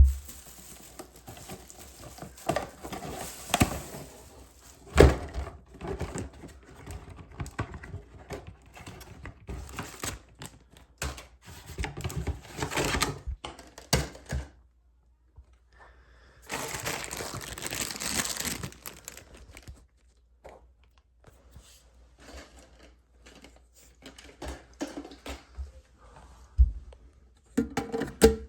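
Handling noise from work on toilet parts: irregular knocks and clicks with stretches of rustling, the longest lasting about three seconds some seventeen seconds in.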